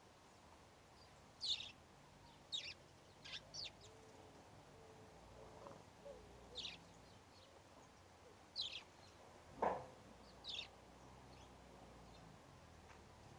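Birds calling: short, high chirps that slide downward, repeated at irregular intervals about seven times. About ten seconds in comes one louder, lower downward-sweeping sound.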